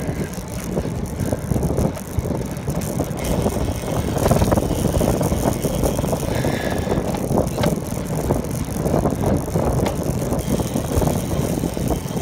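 A bicycle being ridden, heard from the rider's own microphone: a steady low rumble of wind and road noise with a few light clicks.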